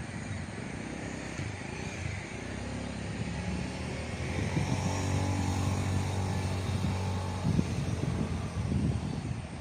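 A motor engine running and passing by, growing louder through the middle and easing off near the end.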